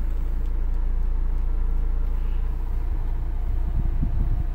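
Maruti Swift Dzire's 1248 cc diesel engine idling with the air conditioning on, heard from inside the cabin as a steady low hum. A few low bumps come about four seconds in.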